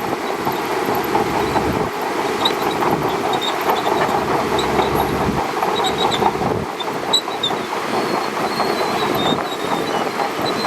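Shantui DH17C2 crawler bulldozer running, with a steady dense clatter from its steel tracks and short high squeaks scattered through it.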